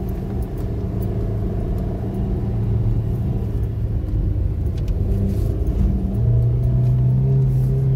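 Car engine running with road rumble, heard from inside the car; the engine hum rises in pitch and gets louder about six seconds in.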